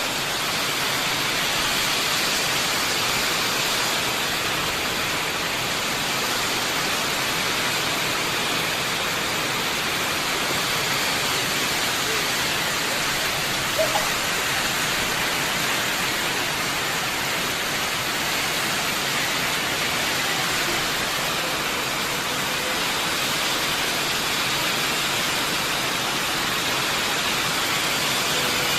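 Steady heavy rain falling, a dense even hiss, with one brief sharp sound about halfway through.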